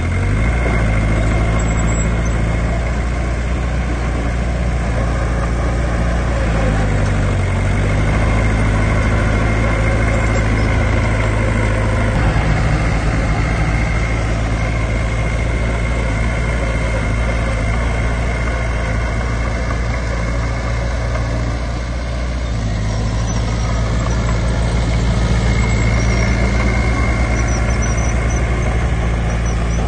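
Diesel engine of heavy earthmoving machinery running steadily, its speed shifting a few times, with a steady high whine above it.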